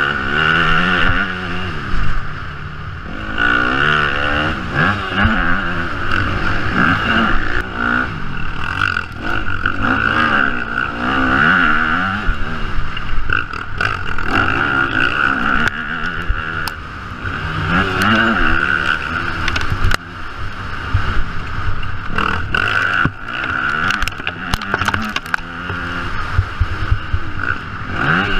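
Yamaha motocross bike engine revving hard and falling off again and again as it accelerates, shifts and slows around the track, with scattered knocks and clatter from the bike.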